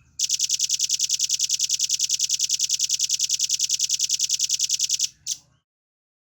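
Velvet-fronted nuthatch singing a rapid, even trill of about ten high notes a second for about five seconds, followed by one short note.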